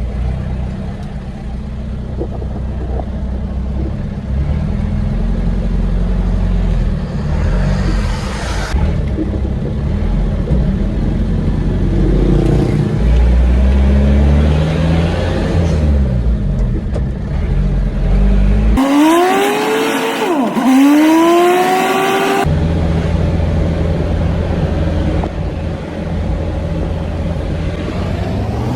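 Old truck's engine running while driving, heard from the cab. About two thirds of the way through the revs climb, dip and climb again with a rising whine, and they rise once more near the end as the truck accelerates.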